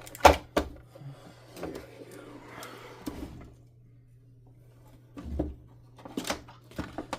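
Sharp plastic clicks and knocks as the two-piece plastic bumper of a Hoover Dimension 1000 canister vacuum is worked off its housing, with a scraping rustle between them and a few more clicks near the end.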